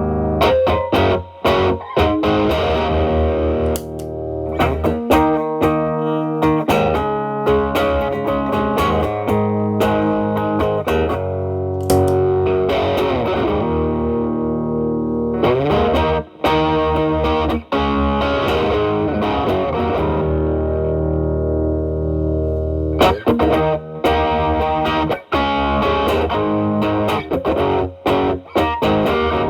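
Electric guitar, a Fender Telecaster, played through an E.W.S. Brute Drive distortion pedal set to gain 9 into a Marshall Valvestate amp's drive channel. It plays quick distorted lead lines broken by a few long sustained notes.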